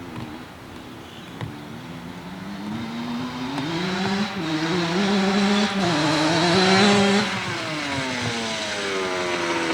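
A dirt bike's engine approaching and growing louder, its pitch rising and wavering with the throttle, then passing by with its pitch falling away over the last two or three seconds.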